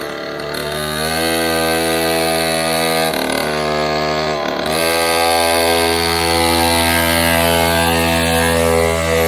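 Cobra mini dirt bike's small engine running at high revs: the revs climb about a second in, dip briefly twice near the middle, then hold steady.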